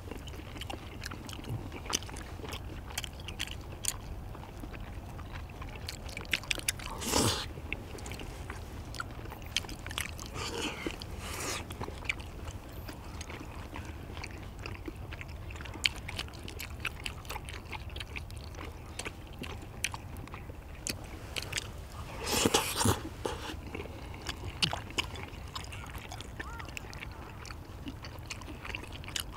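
Close-up eating sounds: people chewing sticky rice cakes and pork in black-bean sauce, with many small clicks of wooden chopsticks on plates. Louder noisy bursts stand out about 7 and 22 seconds in.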